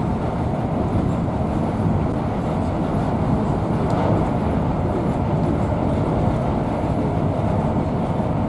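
Steady running noise inside a moving HST passenger coach: a low rumble of wheels on rail with faint clicks.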